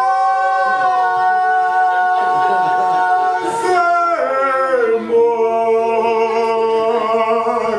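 Unaccompanied voice singing long, held notes, sliding to a new set of pitches about four seconds in and stopping at the end.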